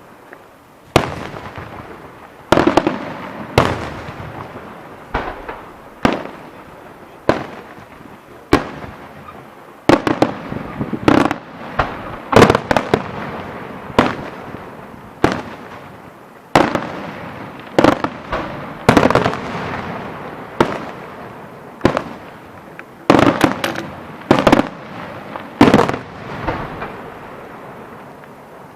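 Fireworks display: a steady series of loud bangs, roughly one a second and sometimes two close together, each followed by a short echoing tail.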